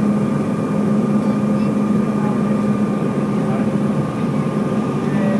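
Steady drone of an airliner's engines, holding a few constant hum tones.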